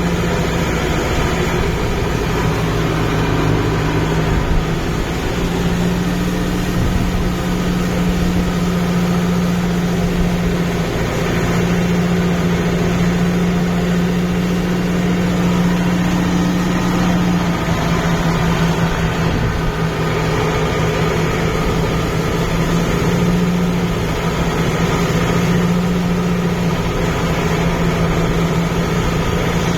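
Kubota MU5502 tractor's four-cylinder diesel engine running steadily under load while driving through a muddy paddy field. Its note shifts slightly up and down several times.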